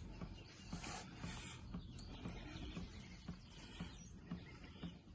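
Faint, irregular small clicks and rustles of hands working at the oil filter housing, with a low background hum.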